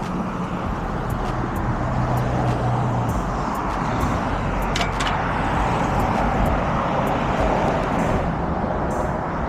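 Steady rush of wind and road noise from riding an electric dirt bike along a street, with traffic sounds around it.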